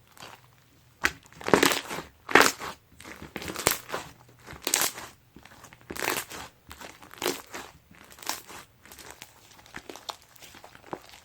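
Chocolate slime packed with bean bag foam beads being squeezed and pressed by hand, giving crackling, crunchy bursts about once a second.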